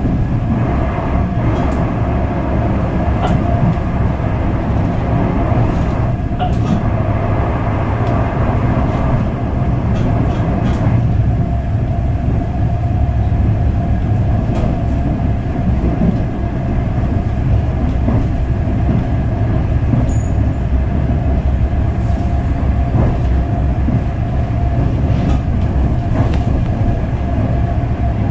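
Heard from inside the carriage of a moving passenger train: a steady low rumble of wheels on the track, with a steady hum over it and a few faint clicks.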